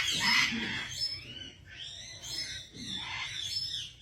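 Pet parrot giving a run of rasping squawks and chatter, loudest in the first second.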